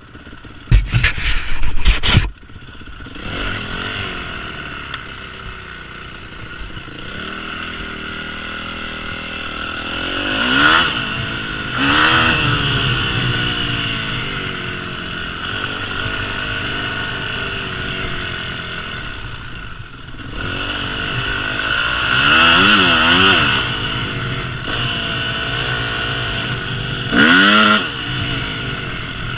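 Yamaha YZ250F four-stroke single-cylinder dirt bike engine being ridden, its revs rising and falling, with sharp rev rises about a third of the way in, around two-thirds and near the end. A few loud, rough bursts of noise come in the first two seconds.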